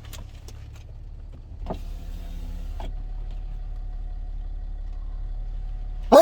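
Inside a Land Rover Discovery 4 with its engine running low, a power window motor whirs for about a second, starting and stopping with a click. Just before the end comes a loud, short pitched call.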